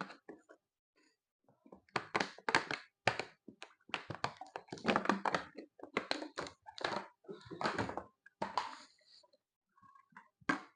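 Irregular knocks and scrapes of a spoon in a bowl, as garri soaked with water is stirred.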